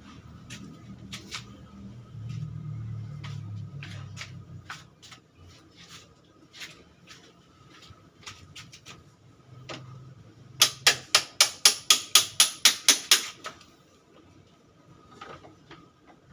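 Scattered light clicks and knocks, then about three seconds in the last third of a quick, even run of about fourteen sharp strikes, roughly five a second.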